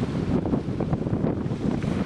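Sea surf washing on the shore, a continuous rough rushing with crackly detail, with wind buffeting the microphone.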